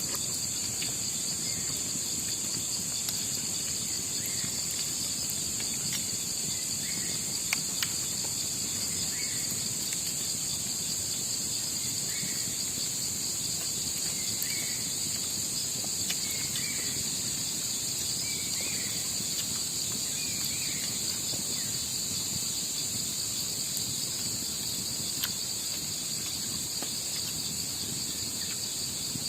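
Steady, high-pitched chorus of crickets and other night insects. Through the middle stretch a separate short call repeats about every two seconds, about eight times.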